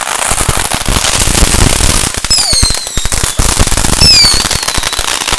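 Fireworks: a dense, rapid string of firecracker crackles and pops, with two shrill whistles sliding down in pitch about halfway through and near the end.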